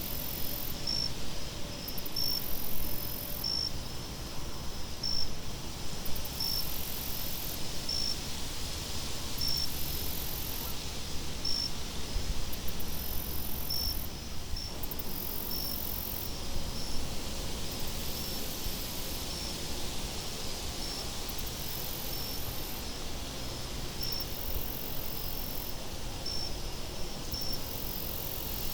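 Night insects chirping over a steady low wind rumble: short high chirps repeat about every second and a half, while a higher, shrill trill switches on and off in pulses of a second or two.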